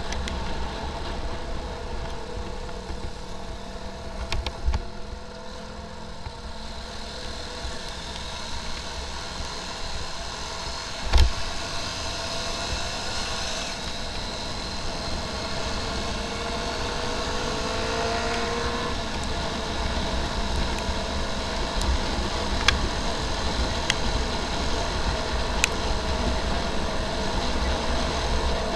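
Motorcycle riding in heavy road traffic: engines running steadily under a low rumble, with a rising engine tone a little past halfway and a sharp knock about a third of the way in.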